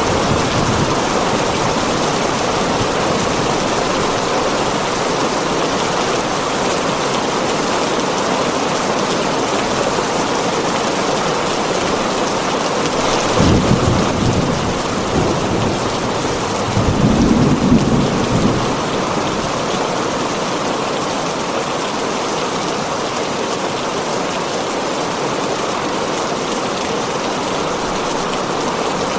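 Heavy rain pattering steadily on a tin roof, with thunder rumbling twice about halfway through.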